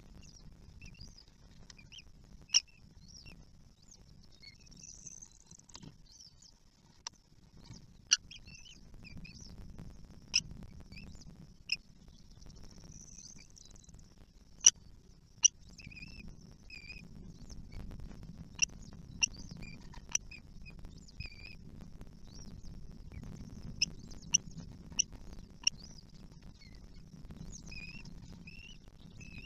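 Kestrel chicks giving short, high squeaky calls in the nest, again and again, with a dozen or so sharp clicks scattered among them and a low rumble underneath.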